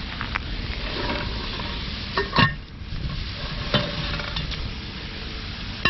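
Ground beef sizzling in a pan as it browns, stirred with a utensil that clanks against the pan about three times. The loudest clank comes a little over two seconds in.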